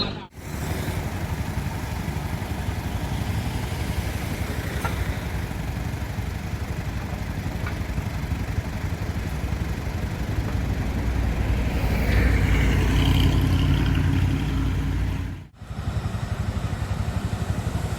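Motor vehicle engine and road noise running steadily, swelling louder about twelve seconds in. The sound drops out abruptly twice: just after the start and about fifteen seconds in.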